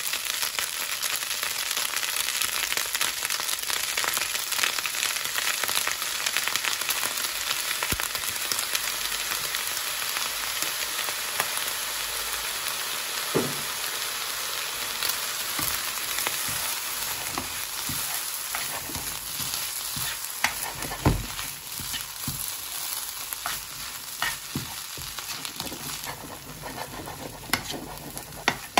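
Fried rice sizzling steadily in a hot nonstick pan. Short taps and scrapes of a spatula against the pan come now and then, more often in the second half, as the rice is stirred.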